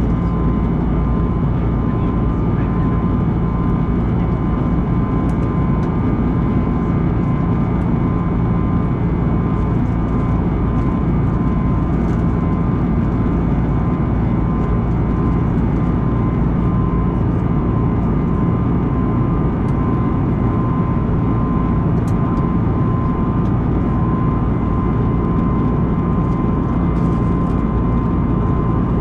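Airbus A321neo cabin noise in flight: a steady rush of engine and airflow noise with a constant hum of several steady tones.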